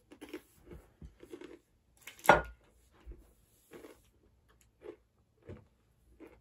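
Crunchy fajita Takis rolled tortilla chips being chewed in short crunches. About two seconds in, a loud knock as a plate is set down on a wooden stand.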